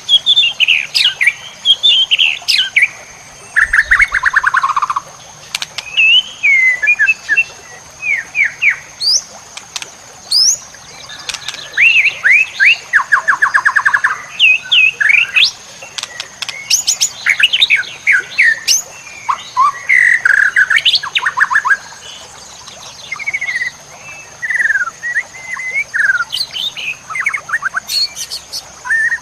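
White-rumped shama (murai batu) singing a varied song of loud whistled phrases and fast trills, with short pauses between phrases. A steady high-pitched tone runs underneath.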